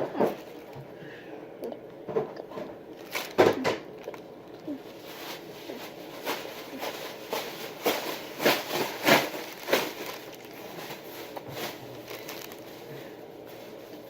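A person biting into and chewing a sandwich close to the microphone: irregular wet mouth clicks and soft crunches, thickest from about five to ten seconds in.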